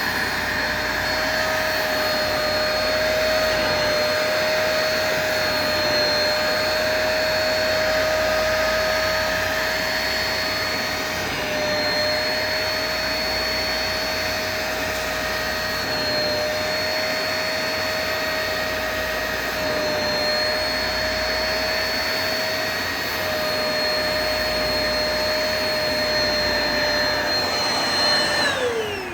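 Hoover Spotless portable carpet spot cleaner running, its suction motor giving a steady whine over a rushing hiss as it sucks tea-stained water out of the carpet. Near the end it is switched off and the whine falls in pitch as the motor winds down.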